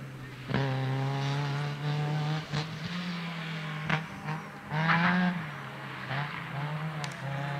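Rally car engine revving hard, its pitch climbing and dropping with the throttle and gear changes, broken by several sharp cracks.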